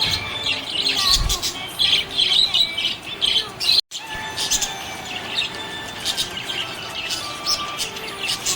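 Budgerigars chirping and warbling in a rapid, busy stream of short high chirps, with a momentary break about four seconds in.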